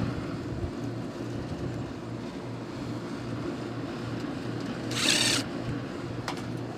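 Central air conditioner's outdoor condenser unit running with a steady electrical hum, its compressor running on a newly fitted starting capacitor. A short rasping burst comes about five seconds in, and a sharp click near the end.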